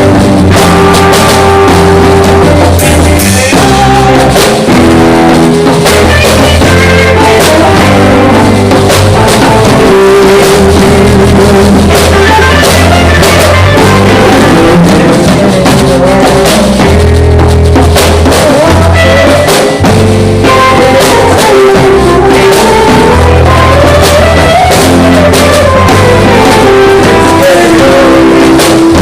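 Live band jamming: drum kit and guitar playing together, loud and continuous, recorded near full scale with poor sound quality.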